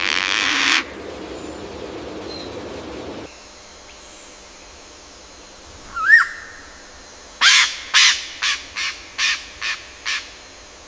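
Bird calls: a short harsh call at the start, a single rising call about six seconds in, then a series of seven harsh calls about 0.4 s apart, each shorter and fainter than the last.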